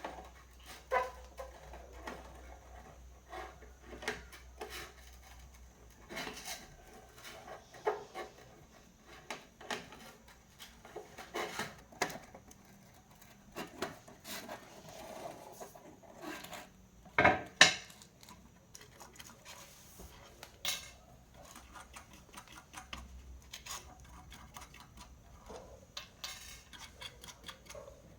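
Irregular light clicks and metallic clinks of small hard objects, such as tools and parts, being handled and set down, with a louder knock about 17 seconds in.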